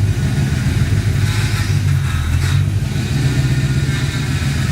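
Pontiac 350 V8 idling steadily in a 1955 Chevy truck while the steering wheel is turned. From about a second in, a higher hissing noise rises over the engine for about a second and a half, ending sharply: the power steering, found to be low on fluid, making noise under load.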